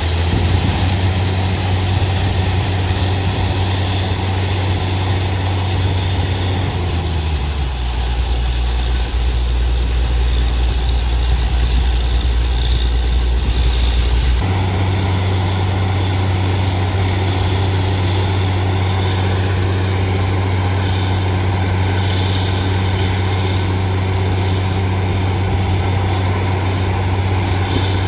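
Heavy engine of a borewell drilling rig running steadily with a deep hum; about 7 seconds in it drops to a lower speed, and about 14 seconds in it picks back up to its earlier pitch.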